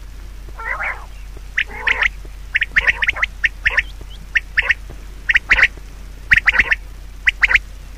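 An animal calling in short, sharp squawks, repeated in quick clusters of two or three, several a second, over a steady low hum.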